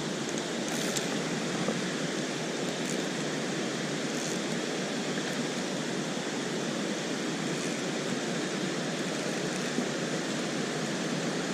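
Small waterfall rushing steadily, running full after a day of heavy rain.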